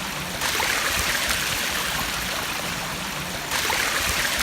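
Water rushing steadily over an overflowing dam, a broad hiss that steps up in level about half a second in and again near the end.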